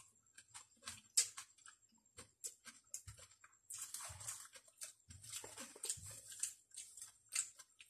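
Close-up chewing of boiled leafy greens eaten by hand: a string of soft wet clicks and mouth smacks, with a few longer moist smacks in the middle.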